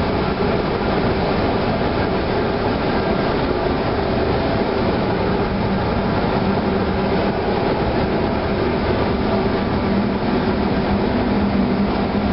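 Steady, loud drone of a ship's engine-room machinery, with a constant low hum running through it.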